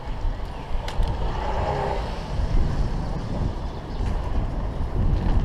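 Wind rumbling on a bike-mounted GoPro's microphone while cycling, with a few sharp clicks and rattles from the bike.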